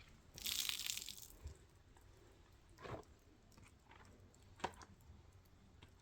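A brief crinkling, crunching rustle about half a second in, then two faint sharp clicks a couple of seconds apart.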